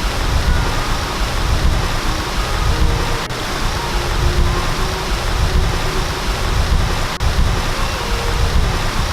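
Steady rush of flowing water, with gusty wind rumbling on the microphone.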